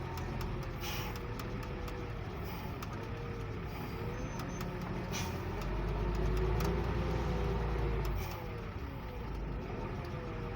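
Heavy goods truck running on the road: a steady low engine rumble that grows louder for a couple of seconds in the middle, with a faint whine rising and falling above it.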